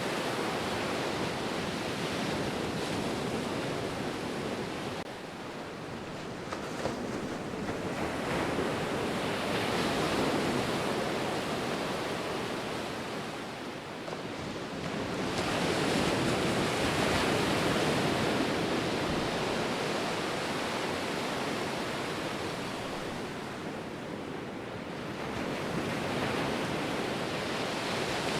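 Ocean surf: waves breaking and washing in, a steady rushing hiss that swells and eases every seven to ten seconds.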